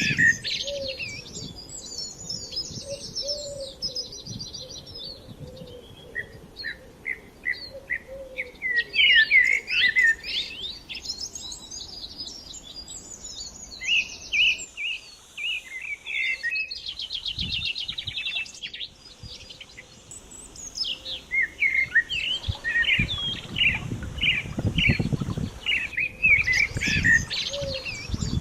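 Small birds chirping and singing, with many short overlapping calls and fast trills. A low rumble joins in over the last several seconds.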